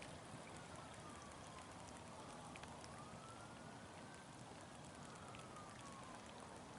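Faint wailing emergency-vehicle siren: one tone slowly falling and rising in pitch, about four seconds per swing, over a steady faint hiss.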